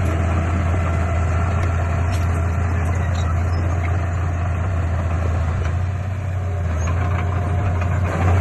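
Heavy diesel engine of construction machinery running steadily with a deep hum, dipping slightly about six seconds in and rising briefly near the end.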